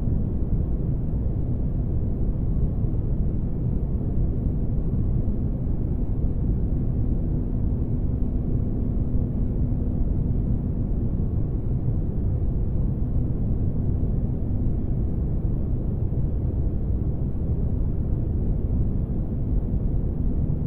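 Spaceship ambience: a steady, deep rumbling drone of engine-like noise, with a faint steady hum over it that fades out about halfway through.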